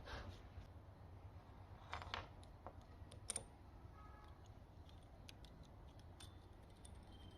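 Near silence broken by a few faint clicks and taps of small metal parts being handled, twice about two seconds in and again a little after three seconds, as a pulse jet's reed valve petal and cover are fitted back together.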